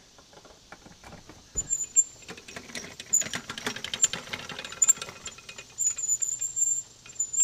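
Homemade rover driven by a treadmill DC motor running on 24 V, starting up about a second and a half in and then running with a dense clicking, rattling and squealing. Its bare axle has no bushings or bearings and grinds against the metal frame.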